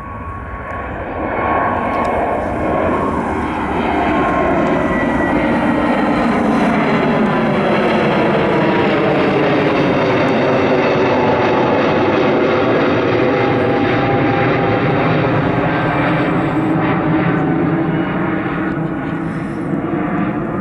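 Airbus A320neo's twin turbofan engines at full go-around thrust. The jet noise swells over the first few seconds and then holds loud, with tones sweeping down and back up as the airliner passes.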